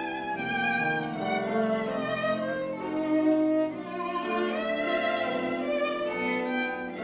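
Live chamber music: a violin playing a sustained, moving melody over lower bowed strings.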